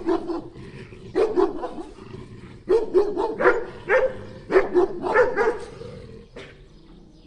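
A dog barking repeatedly, about a dozen short barks in quick runs of two or three.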